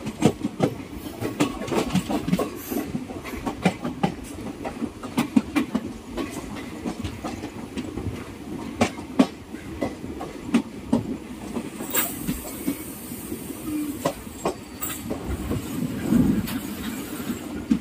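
Passenger train running along the track: a steady rumble with many irregular clicks and knocks of the wheels over the rail joints, and a brief hiss about twelve seconds in.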